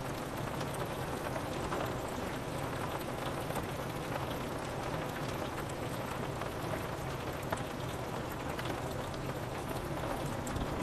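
Steady rain falling on a window, with many scattered individual drops ticking against the glass.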